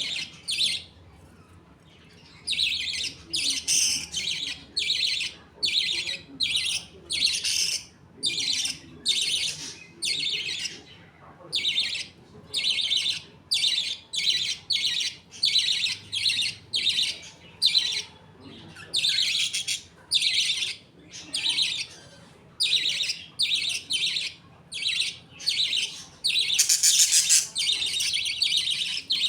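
A budgerigar colony chirping and chattering, a steady run of short, high-pitched calls about two a second, busiest near the end.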